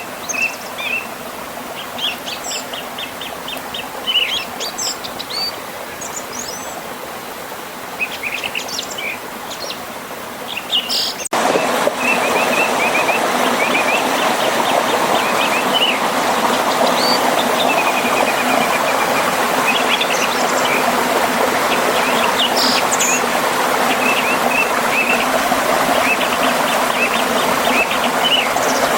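Songbirds chirping and trilling in quick repeated phrases over a flowing river. About eleven seconds in, the water sound cuts suddenly to a louder, fuller rushing of the river over a small waterfall, with the birds still singing above it.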